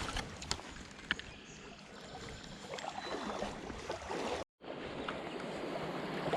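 Creek water running as a steady rushing haze, with a few small clicks and splashes in the first second or so. The sound drops out for an instant a little past the middle.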